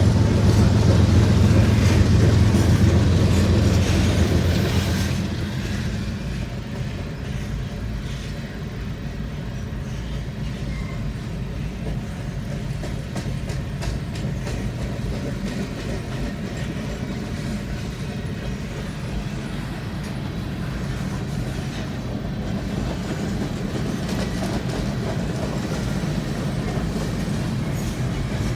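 Freight cars of a CSX mixed freight train rolling past, their wheels clacking over rail joints. A loud, deep hum fades away about five seconds in, after which the steady rolling of the cars remains.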